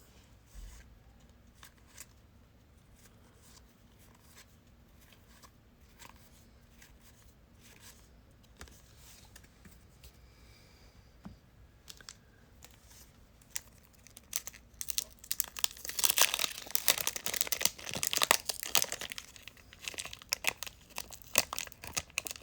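Faint scattered clicks of cards being handled. Past the middle, a trading card pack's wrapper is torn open and crinkled loudly.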